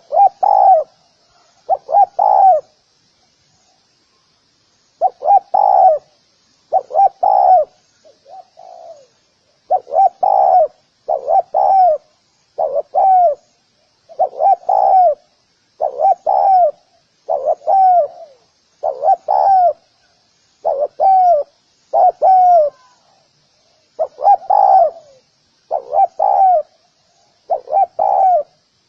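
Spotted dove cooing over and over in phrases of two or three notes, each note bending down in pitch. The phrases come about once a second, with a pause of a few seconds near the start.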